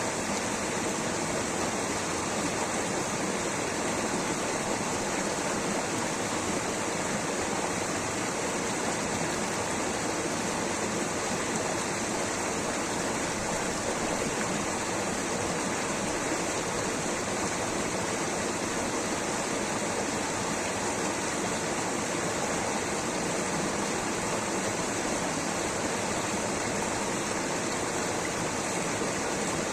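Rushing water, a steady, unbroken wash of a stream or small waterfall.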